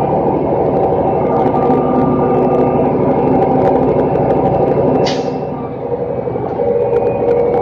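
Roll-off garbage truck's diesel engine running steadily, with a short hiss of air about five seconds in.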